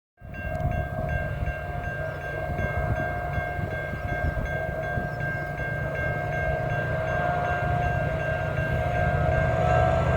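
A train running, its low rumble under a long steady tone that holds throughout, with a short higher tone repeating about twice a second. The sound grows slowly louder.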